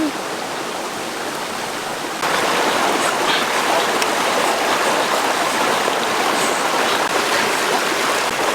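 Running water, like a stream flowing steadily, with a sudden jump to a louder level about two seconds in.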